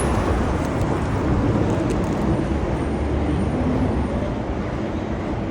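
City road traffic rumbling steadily close by, with engine and tyre noise.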